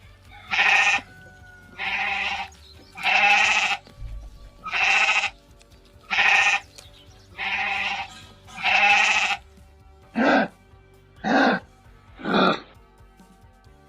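Goat bleating repeatedly: seven longer bleats, then three shorter ones near the end, over soft background music.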